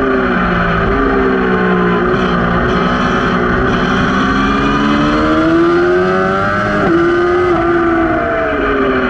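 Racing motorcycle engine under hard riding on a circuit, its pitch rising steadily under throttle, changing abruptly about seven seconds in, then falling near the end as it slows, over a steady rush of tyre and wind noise. Heard from a camera mounted at the rear axle.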